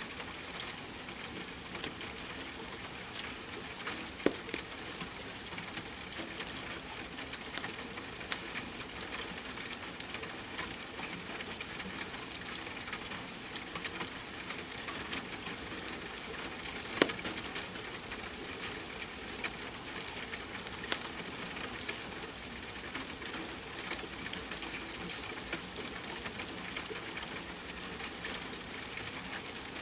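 Steady hiss of rain mixed with a wood fire crackling, its sharp pops scattered every few seconds; the loudest pop comes a little past the middle.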